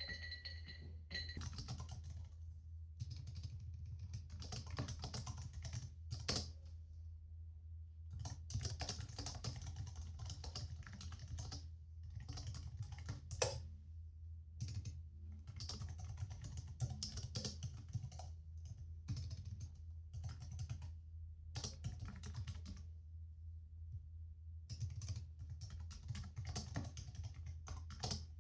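Typing on a computer keyboard: runs of quick key clicks broken by short pauses every few seconds, with the odd single louder key strike, over a steady low hum.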